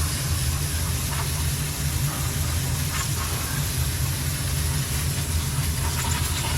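Steady low machine rumble, like an engine running, with an even hiss over it and a few faint light clicks.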